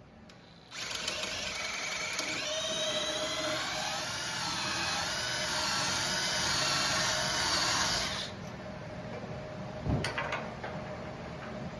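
Electric drill boring into the steel trailer frame for about seven seconds, with a wavering squeal from the bit cutting metal, then stopping; a few light knocks follow.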